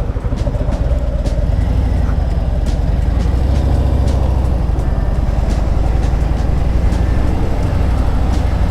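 Harley-Davidson V-twin motorcycle engine running steadily while riding at low speed.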